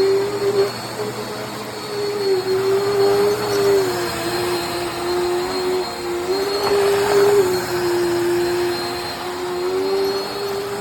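Dirt Devil Endura Lite bagless upright vacuum cleaner running, its motor hum wavering slightly up and down in pitch, with a thin high whine above it.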